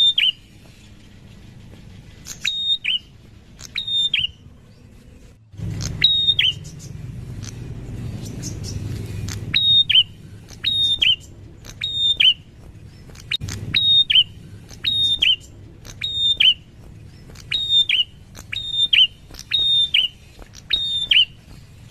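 A prinia singing, repeating a short high whistled note that drops quickly in pitch, often in quick pairs, many times over. The song pauses for a few seconds in the middle while a low rumble rises, then it resumes.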